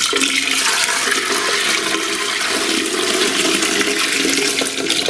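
Dirty recovered water pouring out of a carpet cleaner's recovery tank in a steady, splashing gush.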